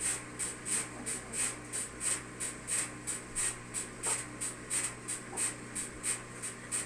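Whirlpool front-load washing machine running, its drum turning with a rhythmic hissing swish about three times a second over a steady motor hum. The owners put the machine's trouble down to worn suspension, the rear dampers sagging.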